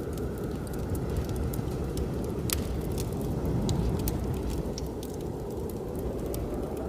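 Wood fire crackling in a fireplace, with scattered sharp pops and one louder snap about two and a half seconds in, over a steady low rushing of blizzard wind.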